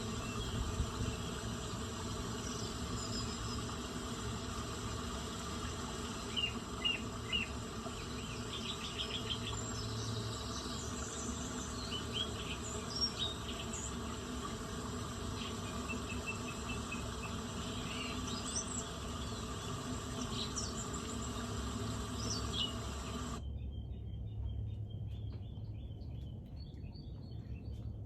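Outdoor ambience of insects buzzing steadily, with scattered short bird chirps and a low rumble underneath. About 23 seconds in, the sound changes abruptly to a single steady high trill.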